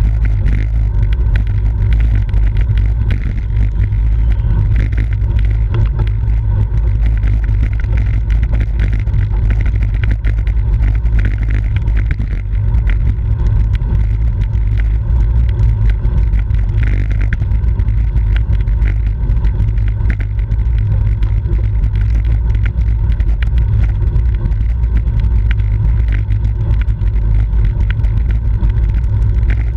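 Steady low rumble of wind buffeting the microphone of a camera riding on a bicycle at race speed.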